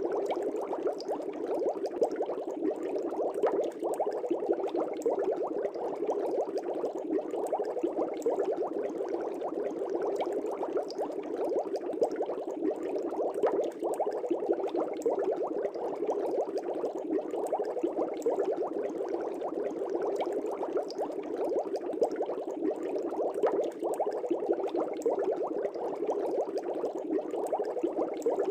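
Fish tank aeration bubbling: a steady stream of air bubbles rising and breaking at the water surface, with many small pops.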